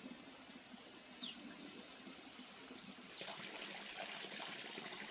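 Water trickling, faint at first and growing louder and splashier about three seconds in.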